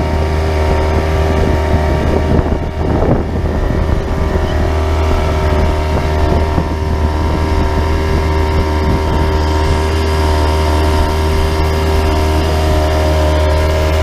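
Engine running steadily at an even speed, with a constant low drone and a brief rougher patch about three seconds in.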